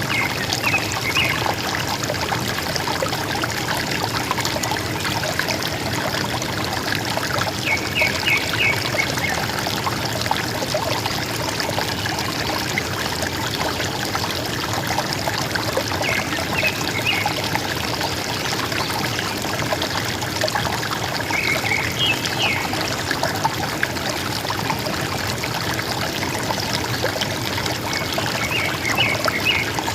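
River water gurgling and trickling steadily. A bird gives a short burst of a few quick notes about five times, several seconds apart.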